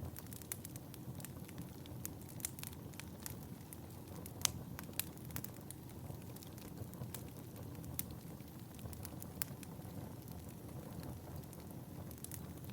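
Fire in a fireplace crackling: irregular sharp pops and snaps, one louder snap a few seconds in, over a steady low rumble of the flames.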